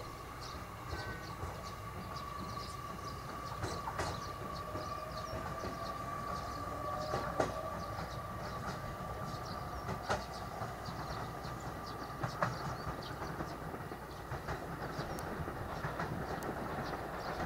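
JR Kyushu 885-series electric express train rolling past at low speed, with a steady whine and scattered sharp clicks from the wheels over the rails.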